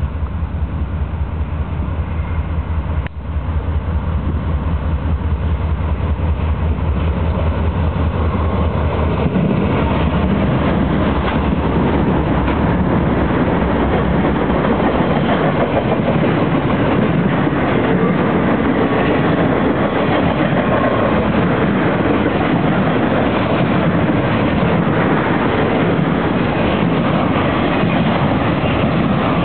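Norfolk Southern freight train passing close by: a low rumble from the approaching diesel locomotives, giving way about nine seconds in to a steady, loud noise of locomotives and then intermodal flatcars with truck trailers rolling past on the rails.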